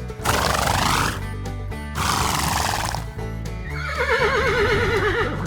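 Horse giving two breathy noisy blows, then a long wavering whinny near the end, over steady background music.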